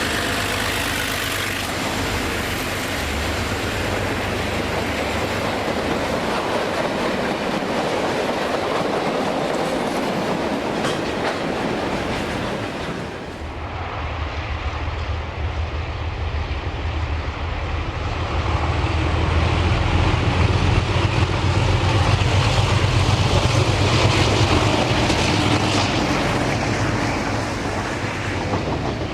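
Diesel-hauled freight train running past, its wagons clattering over the rail joints. A diesel locomotive's engine note grows louder about two-thirds of the way through, then eases off near the end.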